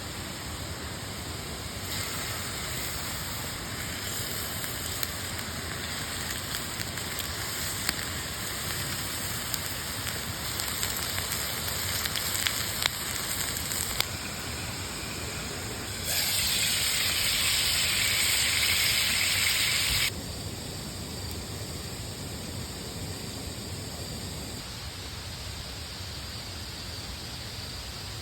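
Wood fire crackling with a steady hiss and scattered sharp pops. About four seconds past the middle a louder, brighter sizzle cuts in and stops abruptly: steak frying in an iron frying pan.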